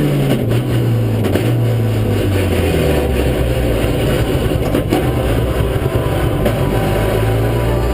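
Racing car engine under load, its revs falling over the first three seconds, then running steady at low revs.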